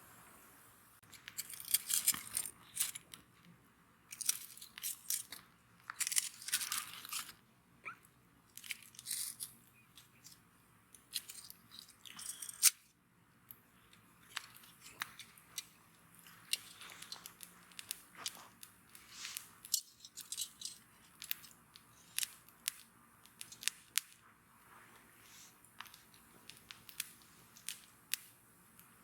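Wood bonfire crackling: irregular sharp pops and snaps, coming in dense clusters about two and six seconds in, then more scattered, with the loudest single snap about twelve seconds in.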